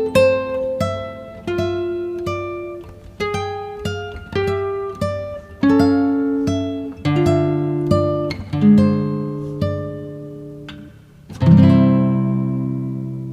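Background music: a slow acoustic guitar piece, single plucked notes one after another, then a fuller chord near the end that rings on and fades.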